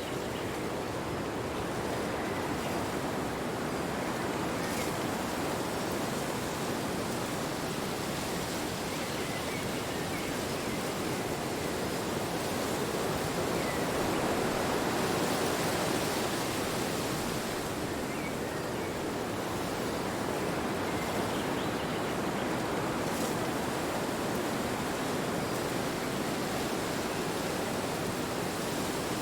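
Wind blowing steadily, a constant rushing noise that swells a little about halfway through.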